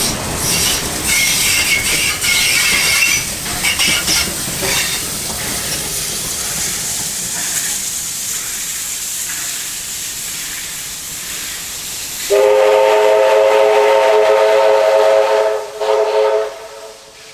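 A train rolling past with wheels clicking over the rail joints and a brief wheel squeal early on. About twelve seconds in, a locomotive sounds one long multi-note blast, then a short second one.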